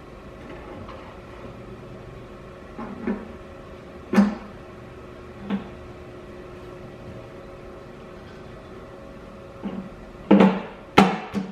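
Sharp metallic clunks from parts and tools being handled while an oil pan is fitted to a small-block V8: single knocks a second or so apart, then a quick run of louder clunks near the end. A faint steady hum runs underneath.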